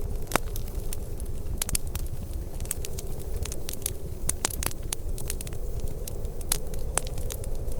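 Wood fire crackling and popping: irregular sharp pops, a few louder ones, over a steady low rumble.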